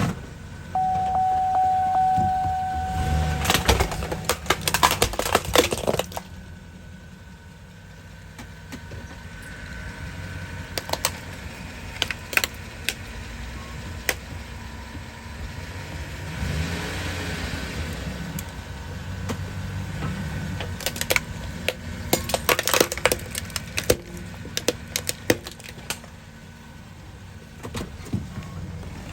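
A truck's engine running while its tyres roll over an electric space heater, crushing it with clusters of sharp cracking and crunching: once about four seconds in, and again near the end. A steady beeping tone sounds for a few seconds near the start, and the engine rises and falls briefly midway.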